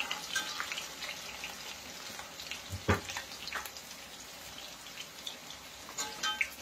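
Whole potatoes frying in ghee in a kadhai, a faint steady sizzle with scattered crackles, while a perforated metal slotted spoon turns them, scraping and tapping the pan; one louder knock about three seconds in.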